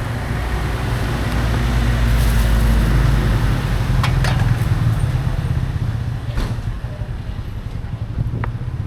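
A motor vehicle's engine running close by, loudest about two to three seconds in and then easing off, with a few short sharp clicks and knocks over it.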